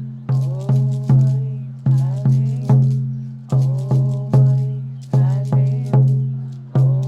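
Hand drum beaten in a steady pattern of three strikes, then a short pause, repeated. Each stroke gives a low, pitched boom that rings and fades before the next.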